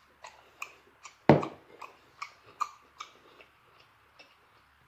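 Close-miked chewing and lip-smacking of lobster tail meat: wet clicks about two or three a second. About a second in, a glass bowl of melted butter is set down on the counter with a thud, the loudest sound.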